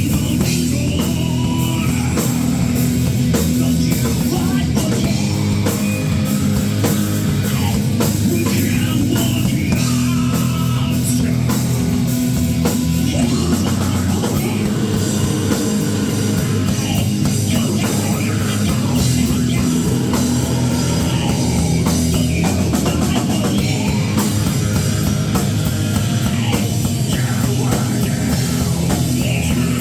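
Rock band playing live, with a drum kit and guitars.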